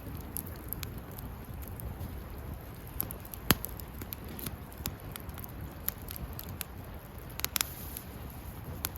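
Wood fire crackling over a steady low rumble of burning, with scattered snaps, one loud pop about three and a half seconds in and a quick run of snaps near the end.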